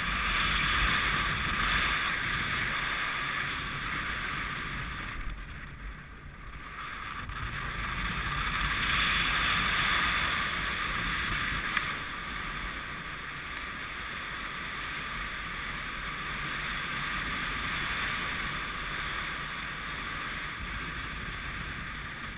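Wind rushing over the microphone on a paraglider taking off, a steady rush that swells and eases, dipping briefly about six seconds in.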